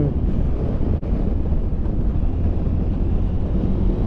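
Wind buffeting a helmet-mounted microphone at riding speed over the steady low drone of a motorcycle and its tyres on the road, with a brief dropout about a second in.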